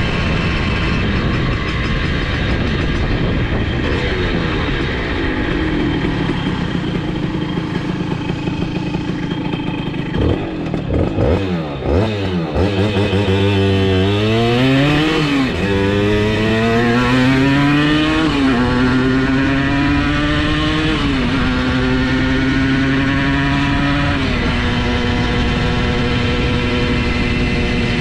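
Simson S51's 85cc two-stroke engine under full throttle. After a short choppy spell it revs up through the gears: the pitch climbs and drops back at each of four shifts, then holds steady at high revs near top speed.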